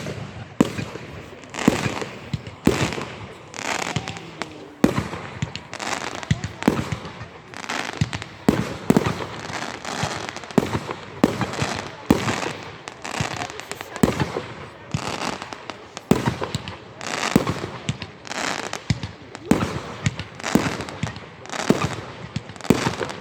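Fireworks going off in a rapid, continuous series of sharp bangs, about two a second, with crackling trailing each one.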